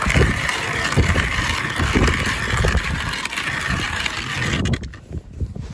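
Strong wind buffeting the microphone: gusty low rumbles over a steady hiss that drops away sharply near the end.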